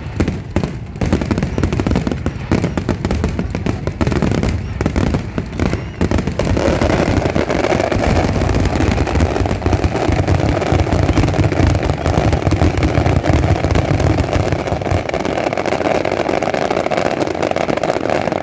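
Fireworks going off in a dense, continuous barrage of bangs and deep booms, fired in rapid succession. From about six seconds in, a steady crackling hiss fills in over the bangs.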